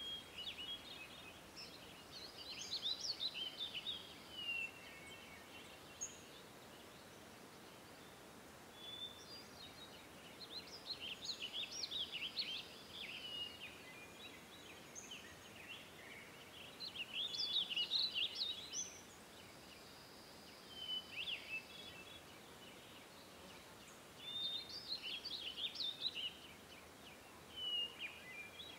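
Songbirds singing in short, fast twittering phrases that recur every few seconds, over a faint steady hiss.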